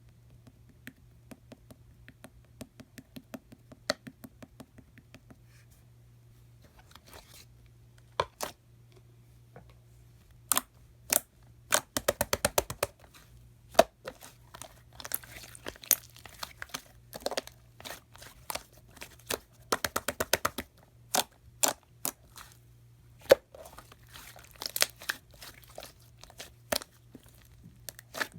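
Slime being squished and pulled by hand, giving sticky clicks and pops, with two fast runs of crackling pops about twelve and twenty seconds in.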